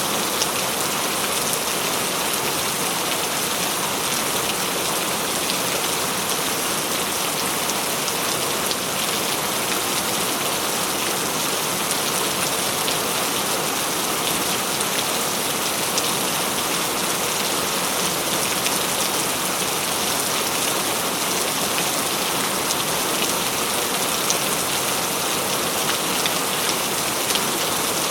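Steady heavy rain falling and splashing on surfaces, with scattered drop ticks and no thunder.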